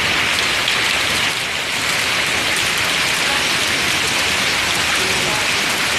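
Heavy rain pouring steadily, a dense, even hiss of drops splashing onto the wet, puddled ground.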